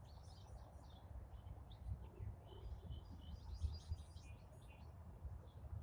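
Songbirds chirping and singing faintly in short, overlapping calls over a low steady rumble.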